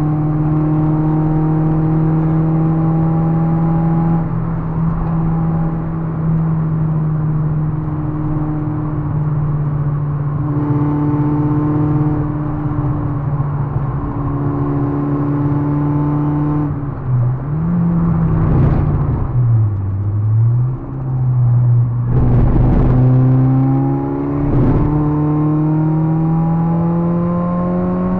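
Citroën Saxo 1.6 VTR's 8-valve four-cylinder engine running hard on track, heard from inside the car. Its pitch holds fairly steady, then dips and wavers for a few seconds past the middle, with three sharp bangs, before it climbs steadily as the car accelerates again.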